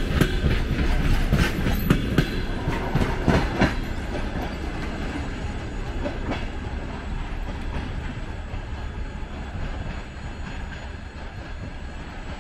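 Wheels of passenger coaches clicking over the rail joints as the last cars of a departing train roll past, with a series of sharp knocks in the first four seconds or so. Then the rumble fades steadily as the train pulls away.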